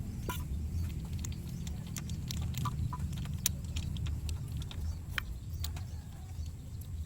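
Scattered light clicks and small metallic taps of hand work on an engine bay while the spark plugs are being refitted, over a steady low rumble.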